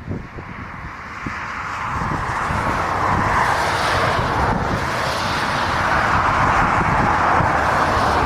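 Jet airliner approaching to land, its engine and airflow noise a rushing sound that grows louder over the first few seconds and then holds steady.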